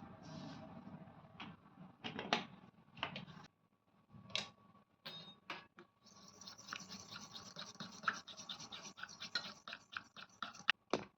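Fast repeated scratchy brushing or scraping strokes, preceded by a few scattered sharp clicks and knocks.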